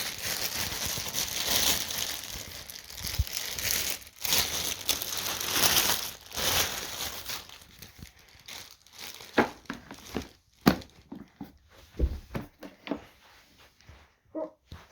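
Plastic packaging crinkling and tearing as it is opened by hand. After about eight seconds it gives way to scattered light clicks and knocks of handling.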